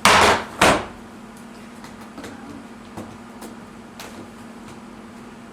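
Plastic shelf parts being handled: two loud, short scraping knocks within the first second, then a few light clicks.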